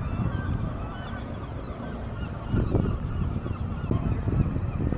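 Birds calling over a low, uneven rumble.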